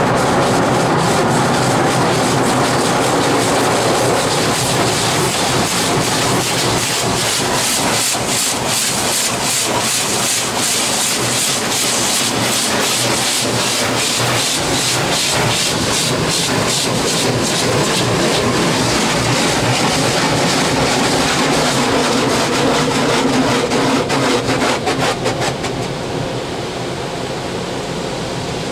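Rinse water spraying over a car in an automatic tunnel car wash, heard from inside the cabin as a steady loud hiss of water drumming on the roof and glass, with a fluttering pulse at times. The spray eases somewhat near the end.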